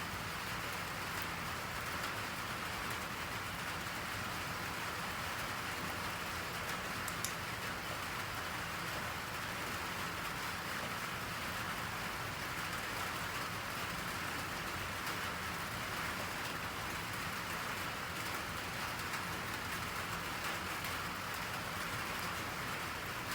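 Steady rain falling, an even hiss of drops on a surface, with one brief faint click about seven seconds in.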